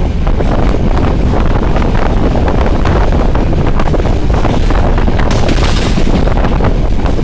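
Wind buffeting the microphone at an open train window, over the steady, loud rumble of the train running along the track.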